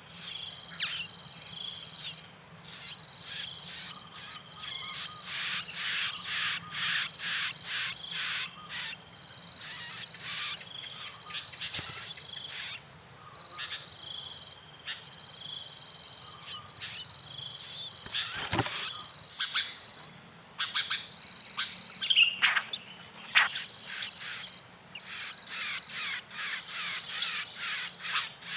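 Steady high-pitched insect chorus, with a pulsed insect note that repeats about every two seconds. Clusters of short bird chirps come and go, and there is one sharp click about two thirds of the way through.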